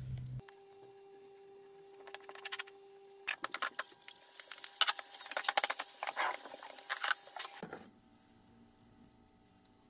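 Diced raw chicken being scraped off a plate with a wooden spatula into a hot frying pan: some clicks and scrapes, then dense sizzling and crackling for about three seconds over a steady hum. It cuts off suddenly near the end.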